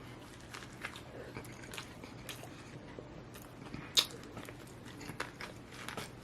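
A person chewing and biting into a fried flounder fish sandwich close to the microphone: small wet crunches and mouth clicks, with one sharp, louder click about four seconds in.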